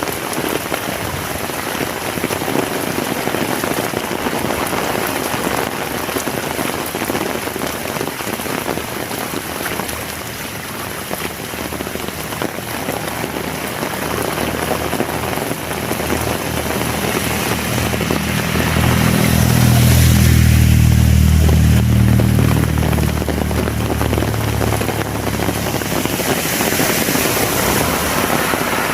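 Heavy rain falling steadily on the ground and surfaces around. About two-thirds of the way in, a motor vehicle's engine hum swells, is loudest for a few seconds as it passes close, then fades under the rain.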